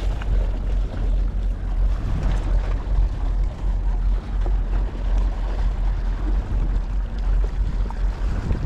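Wind buffeting the microphone: a steady, fluttering low rumble, with a faint hiss of outdoor ambience above it.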